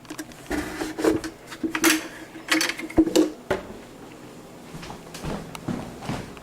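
Irregular knocks and clunks of a full bucket of water being handled and carried, with a brief steady hum under the first half.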